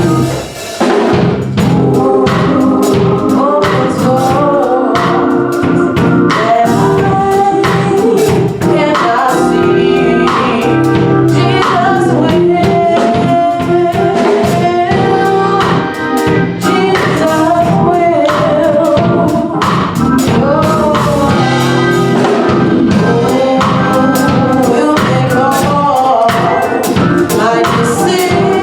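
Gospel song with singing over drums and instruments, playing loud and steady as offering music.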